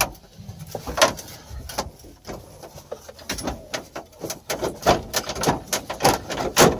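Scattered clicks, knocks and creaks of a GMC's plastic dashboard being pried and pulled apart, getting busier in the second half.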